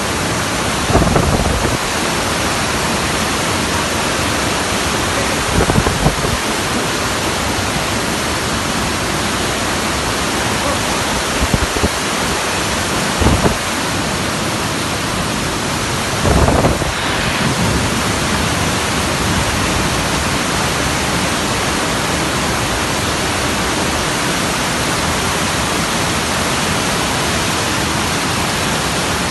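Steady, loud rush of water in a heavy rainstorm, with a few brief low bumps on top.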